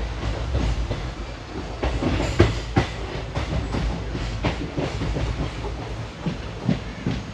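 Train wheels running over rail joints and points, an irregular clatter of knocks over a steady low rumble, loudest about two to three seconds in, as the train crosses onto the loop line.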